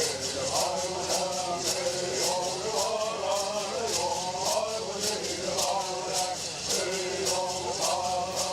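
Bird songs: a group of men chanting in unison, over a steady beat of shaken gourd rattles.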